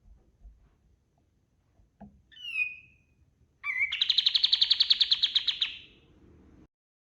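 Kapas tembak singing: a short falling whistle, then a fast, even trill of about ten notes a second lasting nearly two seconds.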